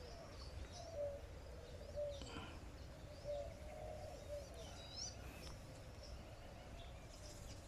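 Faint birds calling over low outdoor background noise: a series of soft, low calls and a few brief high chirps.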